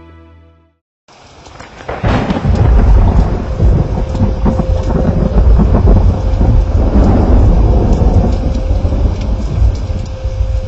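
Heavy rain with deep, rolling thunder, starting about a second in and turning loud a second later, with scattered crackles on top.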